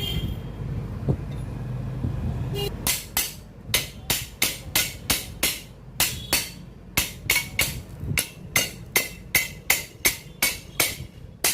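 Steering-head bearing races being hammered into a motorcycle's head tube: a long run of sharp hammer strikes on steel, about three a second, starting about three seconds in after a low steady hum.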